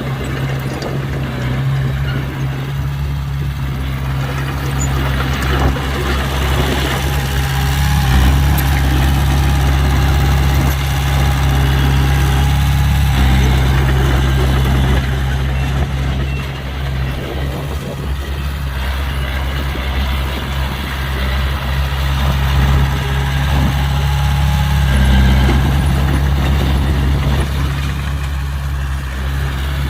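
Heavy diesel engine of earthmoving machinery running steadily, with a deep, even hum that swells and eases a little now and then.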